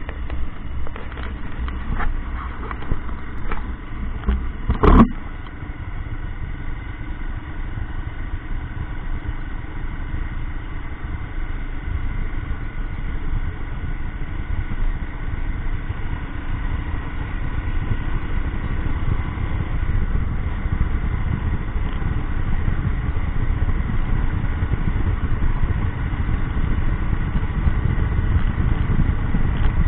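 Royal Enfield Himalayan's single-cylinder engine running steadily during a ride, with road noise, growing louder in the second half. A few sharp clicks and knocks in the first seconds, the loudest about five seconds in.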